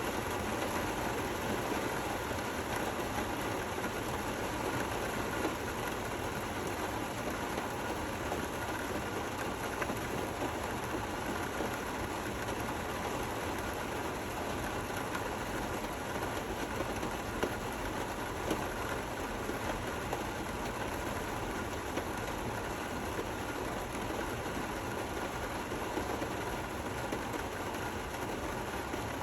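Gentle rain falling steadily: an even hiss of many drops, with no thunder.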